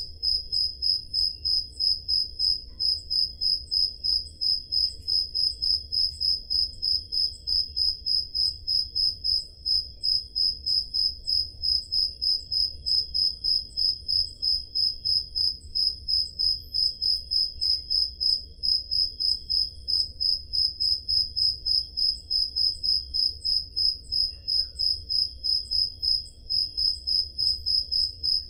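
Crickets chirping on a summer night: one loud cricket repeats an even, steady chirp about three times a second, over a fainter continuous insect trill and a low background rumble.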